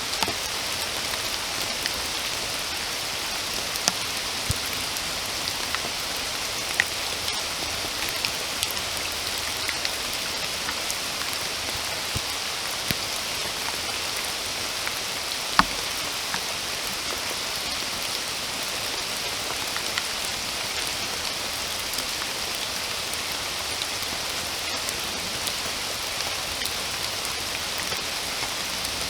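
Steady rain falling, an even hiss with scattered sharper ticks of individual drops landing close by, the loudest tick about halfway through.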